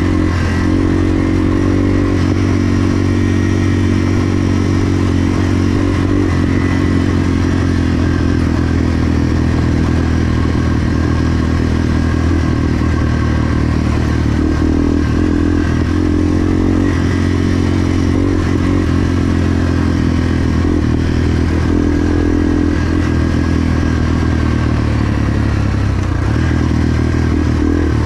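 Yamaha TW200's air-cooled single-cylinder four-stroke engine running hard while ridden, its pitch rising and falling with the throttle and gear changes, with some clatter from the bike over rough ground.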